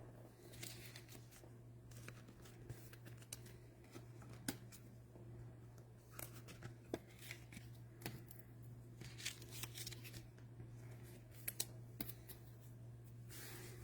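Faint handling of trading cards and card packs: scattered light clicks and rustles, over a steady low hum.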